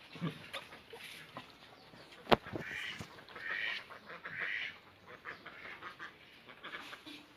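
A sharp click, then three harsh, quack-like animal calls about a second apart, with scattered small ticks around them.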